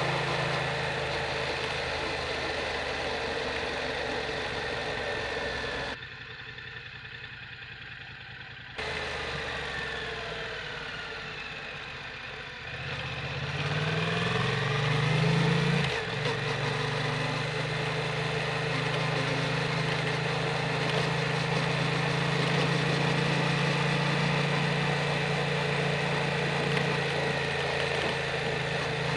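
Yamaha MT-07's parallel-twin engine running through an Akrapovic Racing Titan full exhaust, mostly at a steady note. The engine sound drops abruptly about 6 s in and comes back just as abruptly about 3 s later. Around 13 s in the revs rise for a few seconds, then fall back to a steady note.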